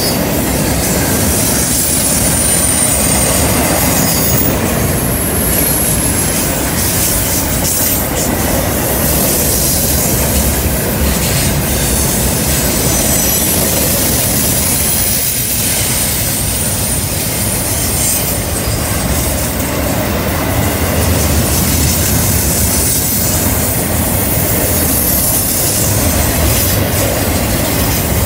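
Double-stack container cars of a CN intermodal freight train rolling past on a curve: a steady rumble of steel wheels on rail, with a high wheel squeal that comes and goes.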